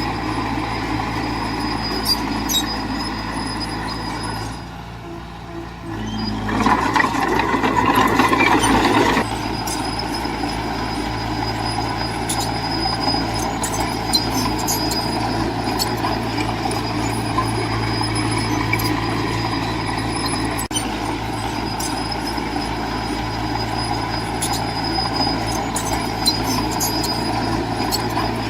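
Heavy diesel machinery running steadily, with scattered clanks. About six seconds in, a louder, noisier surge lasts roughly two and a half seconds.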